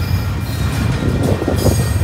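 A train rolling past at close range: a steady low rumble with thin, high steady wheel tones over it, and a quick run of clicks from the wheels over the rail from about halfway through.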